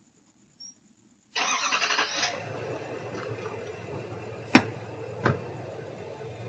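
A truck engine cranking and catching about a second in, then running steadily. Two sharp knocks come partway through, the first the loudest sound.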